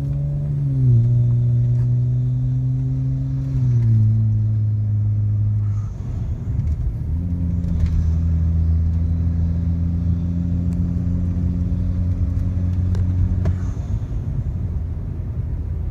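A car being driven, with a steady low engine hum and road rumble. The hum drops in pitch about a second in and again near four seconds, then settles into a steady drone.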